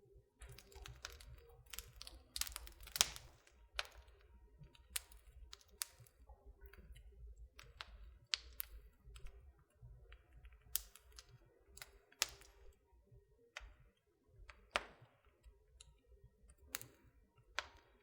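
Wood fire burning in a fireplace, crackling with irregular sharp pops and snaps over a low, steady rumble of the flames. The loudest snaps come about three seconds in.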